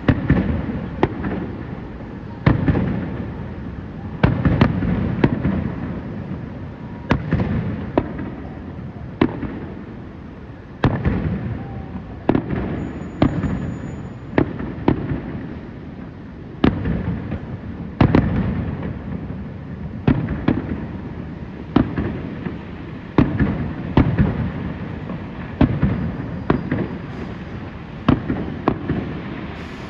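Aerial fireworks shells bursting one after another, sharp bangs at about one a second with uneven spacing, each trailing off in a low echo.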